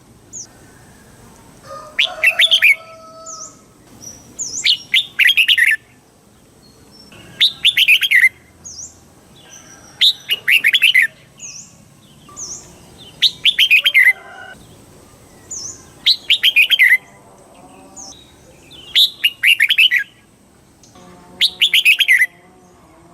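Red-whiskered bulbul singing: eight short, quick warbling phrases of rapid falling notes, one every two and a half to three seconds, with faint short notes between them.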